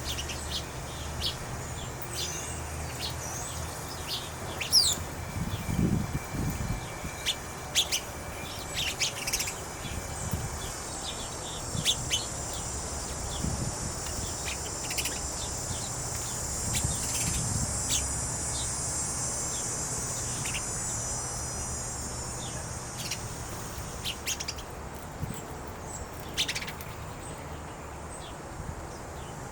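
Wild birds chirping with many short, scattered high calls. A steady high buzz runs through the middle stretch.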